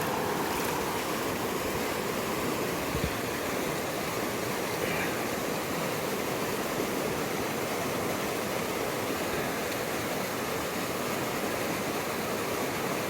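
Steady rush of a rain-swollen river, an even flowing-water noise without a break.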